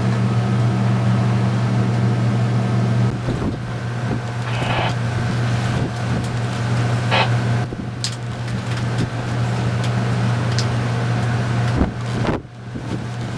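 A vehicle running, heard from inside: a steady low hum over road and wind noise, with a few short clicks and a brief drop about twelve seconds in.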